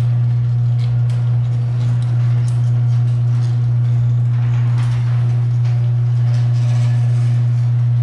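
Electric garage door opener motor running steadily with a loud low hum, driving the door along its track.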